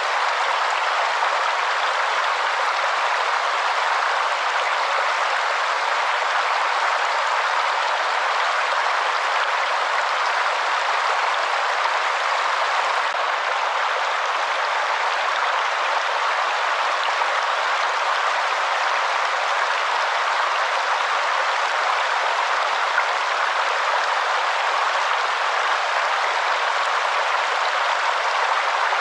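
Waterfall: a steady, unbroken rush of falling water, mostly hiss with no deep rumble.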